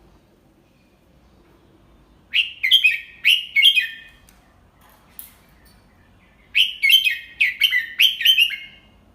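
Red-whiskered bulbul singing two short phrases a few seconds apart, each a quick run of several whistled notes that slide up and down.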